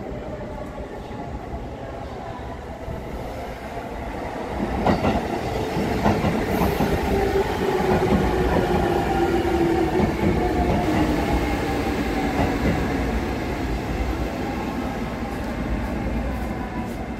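JR East E653 series electric limited-express train running in along the platform track, its rail and wheel noise swelling as it passes, with a sharp clank about five seconds in. A whine falls in pitch as the train slows to a stop in the station.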